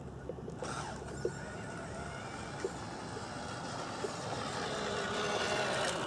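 Radio-controlled model truck running: a motor-and-gear whine over a hiss starts under a second in and grows louder toward the end.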